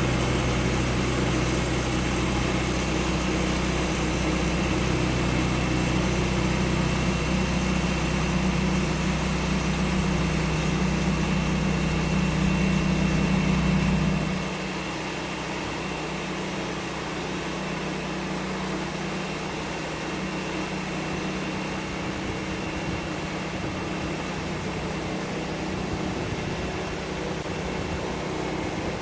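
Sawmill engine running steadily. About halfway through, its deep low hum drops away and it runs on more quietly.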